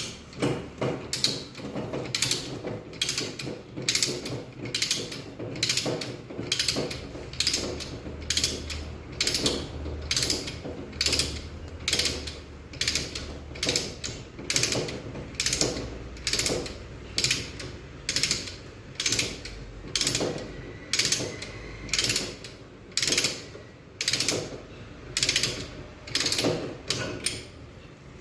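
A plumber's hand tool worked in steady, repeated strokes, a bit under two strokes a second, each one a short scraping or clicking burst.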